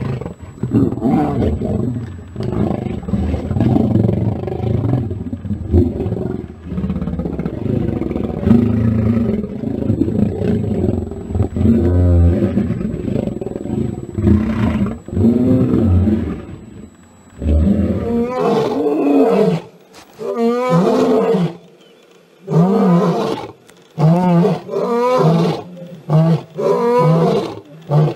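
Lions snarling and growling in a fight, a loud continuous racket for most of the time. About two-thirds of the way through it breaks into a run of separate short roaring calls, each rising and falling in pitch, about one a second.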